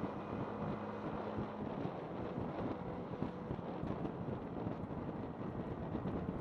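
Yamaha MT-15's single-cylinder engine running on the move, its steady note fading under heavy wind noise on the microphone about two seconds in.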